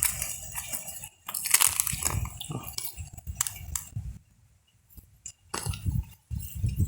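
Dry corn leaves and husks rustling and crackling as ears of corn are handled and picked, in irregular bursts, dropping out to near silence for over a second midway.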